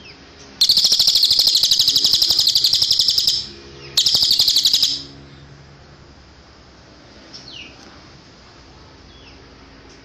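Cililin song: a long, loud, rapid high-pitched trill, a short break, then a second shorter trill. Later come a few faint, short, falling chirps.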